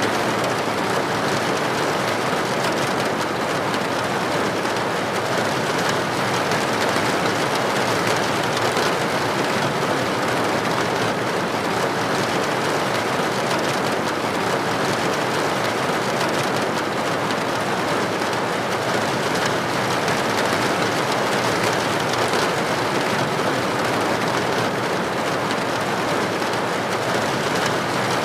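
Steady heavy rainfall, an even unbroken hiss of drops with no distinct drips or thunder.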